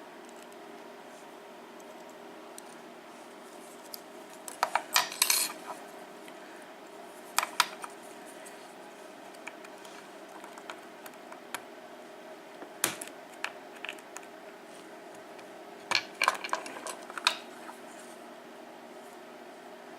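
Small brass lock pins and springs clinking and rattling as they spill out of a disassembled padlock cylinder onto a hard surface, in four short bursts of clatter.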